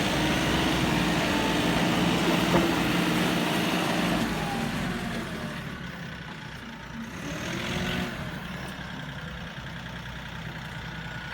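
Kioti NX4510 tractor's turbo diesel engine running as the tractor is driven around. It is louder for the first few seconds, then eases off, with a brief swell near eight seconds.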